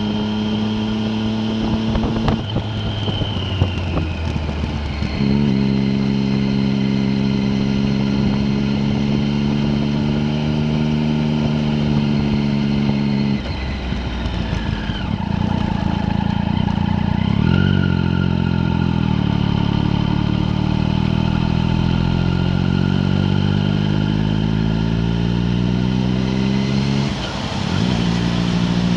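A vehicle's engine driving a mountain road. It holds a steady pitch at cruise for several seconds, breaks off briefly twice, then rises steadily in pitch for about ten seconds as it accelerates, and drops back near the end with what sounds like an upshift.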